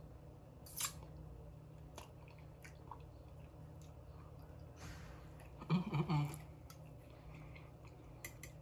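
A person chewing food close to the microphone, with soft wet clicks and smacks of the mouth. About six seconds in comes a short voiced hum, an "mm" of enjoyment.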